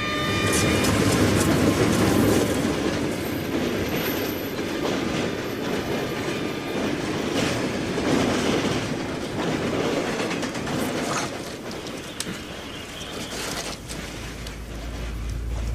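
A train running on rails, its wheels clattering over the track, with a loudness that swells and eases every few seconds.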